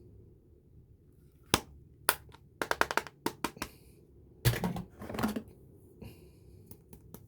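Small hard items being handled: sharp clicks and taps, with a quick run of clicks about two and a half seconds in. A louder rubbing, rustling noise follows at about four and a half seconds, then a few light clicks near the end.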